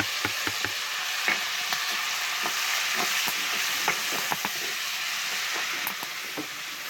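Chopped bacon and calabresa sausage frying in hot fat in a pan, a steady sizzle, with irregular clicks and knocks of a utensil stirring against the pan, most of them in the first second.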